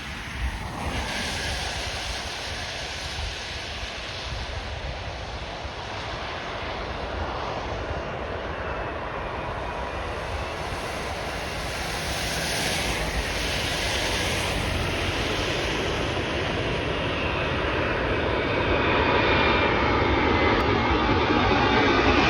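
Four-engined Airbus A380 jet airliner on landing approach, its engines a steady rushing roar that grows louder as it comes closer, with a faint high whine joining in near the end.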